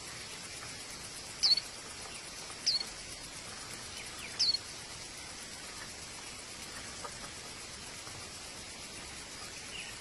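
Three short, high bird chirps, each a quick downward sweep, spaced a second or two apart, over a steady high hiss in the background.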